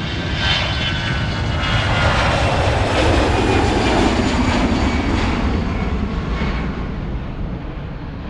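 Fixed-wing airplane flying past: its engine noise swells to a peak about halfway through and fades away, the pitch falling as it passes.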